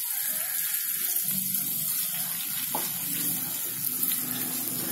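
Shrimp sizzling in hot ghee in a nonstick frying pan, a steady hiss as they are stirred with a wooden spatula, with one light knock about halfway through.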